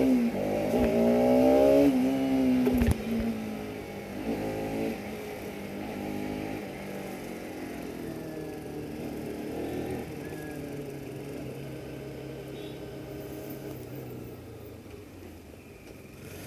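Bajaj Pulsar RS 200's single-cylinder engine under way, rising in pitch as it accelerates in the first few seconds, with a drop between the pulls, then settling to a steadier, quieter run that eases off toward the end.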